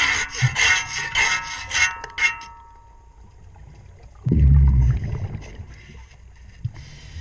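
A ship's propeller being scraped clean underwater: quick rasping strokes, about four a second, with a faint metallic ring, for the first two seconds or so. About four seconds in comes a short low rushing burst, then a few light scrapes.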